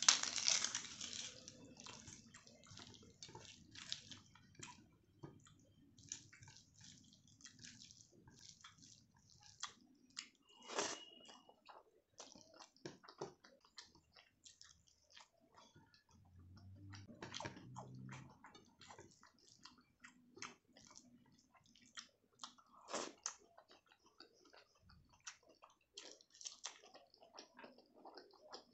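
Close-miked eating: a person chewing and biting food, many short irregular mouth clicks and smacks, with a louder bite right at the start.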